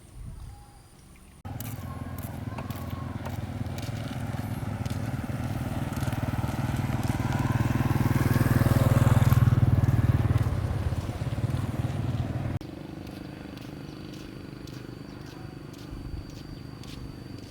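A vehicle engine running, growing louder to a peak about nine seconds in and then easing off; it starts and cuts off abruptly.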